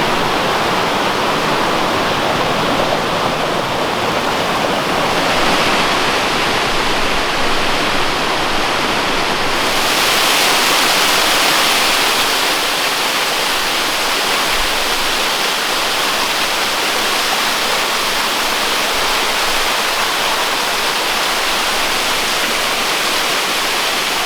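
Rushing water of Wahkeena Creek and its falls: a loud, steady wash of water noise, which turns hissier and brighter about ten seconds in.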